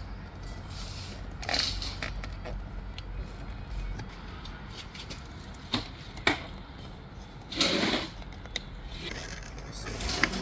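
Hand work on a car's plastic door trim panel: scattered sharp clicks and short scraping rustles as screws are taken out and the trim is handled.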